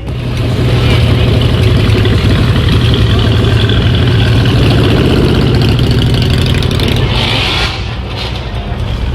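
Loud car engine running, coming up in the first second, holding steady for about seven seconds, then dropping off near the end.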